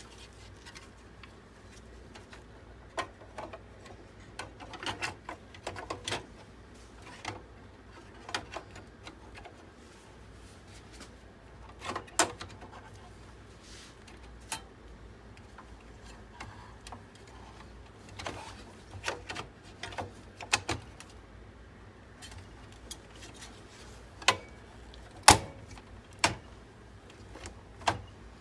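Irregular clicks and light knocks of hard parts and tools being handled while a desktop PC is worked on, over a faint low hum.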